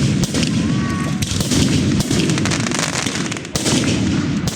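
Fireworks going off in quick succession: a dense, continuous run of bangs and crackles over a low rumble.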